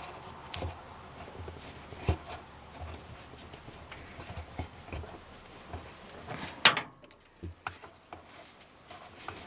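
Hand tool and spring hose clamp being worked on a washing machine's tub drain hose: scattered small clicks and knocks, with one sharp, loud click about two-thirds of the way in.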